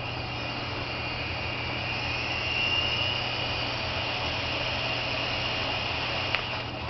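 Syma S107 micro RC helicopter's small electric motors and coaxial rotor blades running with a steady high whine, its pitch rising slightly about two to three seconds in.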